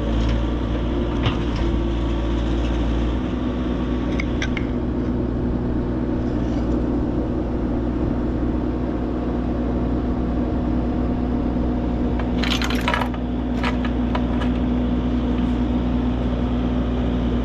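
Diesel engine of an excavator running steadily while it holds and moves a load on a chain, its note shifting about three seconds in. Scattered light clicks and a short burst of noise about two-thirds of the way through.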